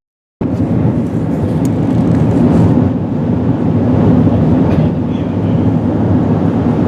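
Steady low rumble of airflow and engine noise inside an Airbus A380's passenger cabin in flight, cut off for a split second at the start before resuming.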